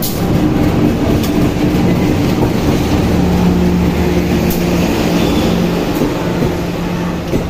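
Diesel locomotive and its passenger coaches pulling in alongside the platform: a loud, steady engine drone and rumble, with a few wheel clicks over the rail joints.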